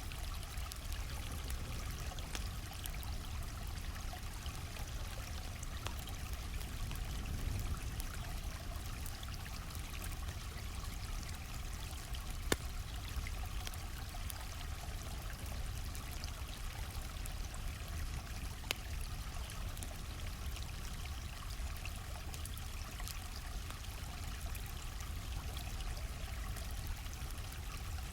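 A stream flowing steadily, with scattered small pops and snaps from a crackling campfire; two sharper pops stand out, one a little before halfway and one about two-thirds through.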